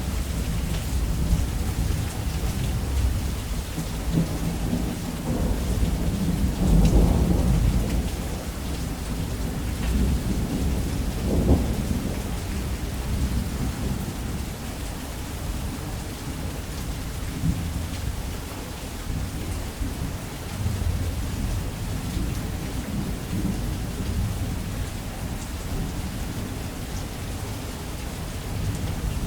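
Heavy rain falling steadily on a roof, under continuous low rumbling thunder. The thunder swells about seven seconds in and again in a sharper peak near the middle.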